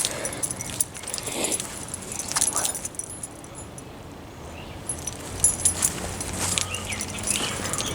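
Small jangling clicks and rustles, like keys or gear jostling while someone walks. A low steady hum comes in about five seconds in.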